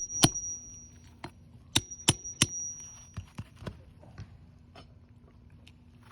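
Sharp metallic clicks of a steel roofing pry tool on a roofing nail in an asphalt shingle: four strikes in the first two and a half seconds, two of them followed by a brief high ring, then a few fainter ticks.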